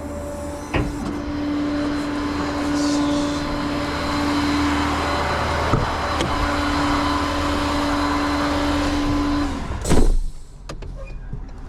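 Tow truck's engine running with a steady whine over a low rumble, the whine breaking off briefly partway through. About ten seconds in comes a loud short burst, after which the running sound drops away and goes quieter.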